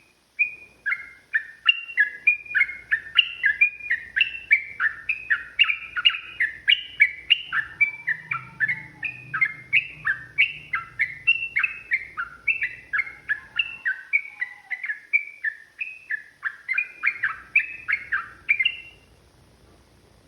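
Yellow-vented bulbul (trucukan) singing a long, unbroken run of quick chattering notes, about three a second, that stops about a second before the end.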